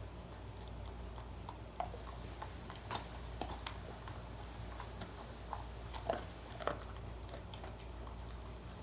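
A dog chewing and eating, heard as scattered small clicks and crunches over a steady low hum.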